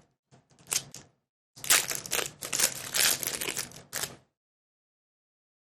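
Foil Pokémon booster pack wrapper crinkling and tearing as it is opened, in two bursts of crackly rustling.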